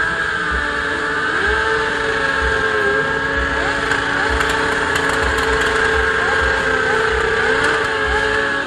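Motorcycle engine held at high revs, steady in pitch with a few brief dips and recoveries.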